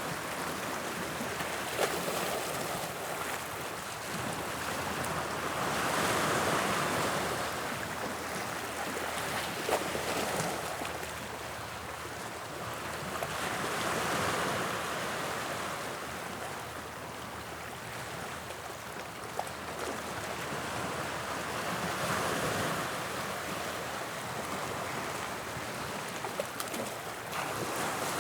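Sea waves breaking and washing up the shore, the surf swelling and ebbing about every eight seconds.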